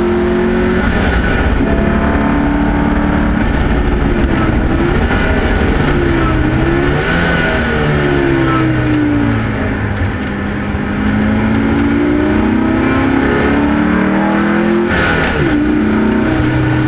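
Zenos racing car's engine heard from the open cockpit at speed, its note repeatedly falling and rising as the car slows into corners and accelerates out of them, with wind and road noise throughout. Near the end the pitch breaks sharply, as at a gear change.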